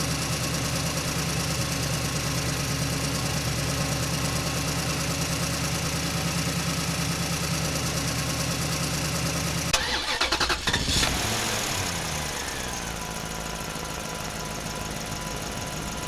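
A vehicle engine running steadily with a fast, even pulse. About ten seconds in the sound breaks off, a lower pitch falls away over a couple of seconds, and a quieter steady hum carries on.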